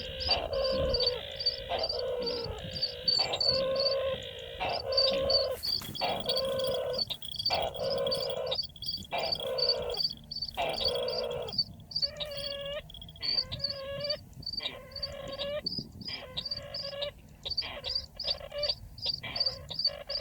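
Calls of the chằng nghịch bird, repeated about once a second, each with a strong low note and overtones. A fast, even series of high chirps, several a second, runs over them.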